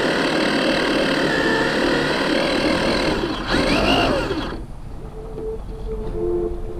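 Losi 22S RC drag car's electric motor and drivetrain whirring loudly, with a whine that rises and falls about four seconds in before the sound drops away.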